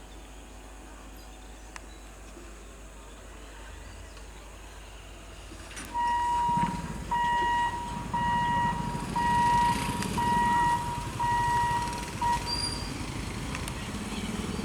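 Quiet background for about six seconds, then the low rumble of an approaching EMU local train rises, while a single-pitched warning beep sounds about seven times, roughly once a second, before stopping about two seconds before the end.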